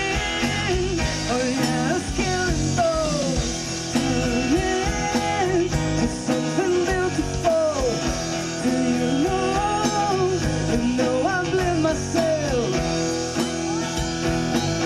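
Pop-rock music: a singer's melody over guitar and band accompaniment.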